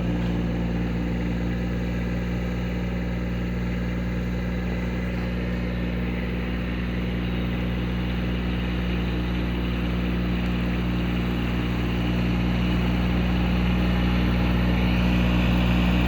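Tractor engine idling steadily, getting a little louder over the last few seconds.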